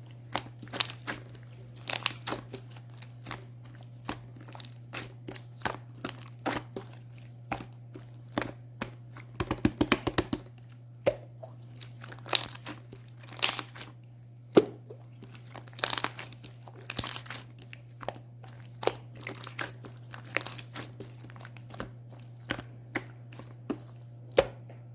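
Clear slime being squished and pressed by hand, making irregular sharp pops and clicks, with a quick run of crackling pops about ten seconds in. A steady low hum runs underneath.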